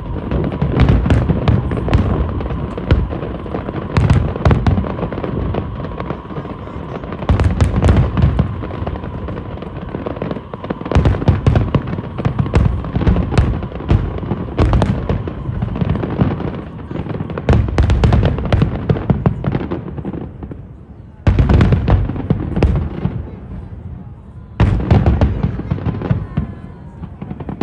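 Aerial fireworks shells bursting in rapid volleys: deep booms and sharp crackling reports, with the loudest clusters coming every two to four seconds.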